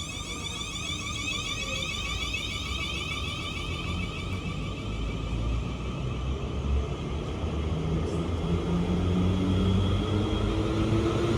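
Passenger train running through the station, growing steadily louder, with a motor whine that rises in pitch from about nine seconds in as it gathers speed.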